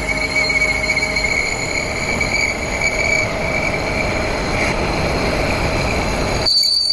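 A metalworking power tool running steadily in the workshop, a grinding hiss with a high steady whine. The sound changes abruptly near the end to a thinner, higher-pitched running sound.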